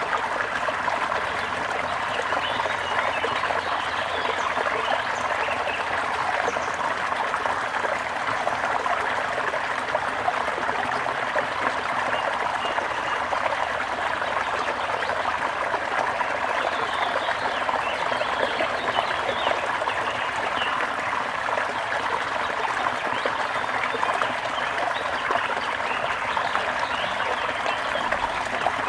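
Water trickling steadily in a stream, with birds chirping faintly now and then.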